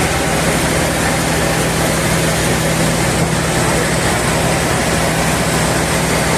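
Sawmill machinery running steadily: an even, loud machine noise with a constant low motor hum that does not change.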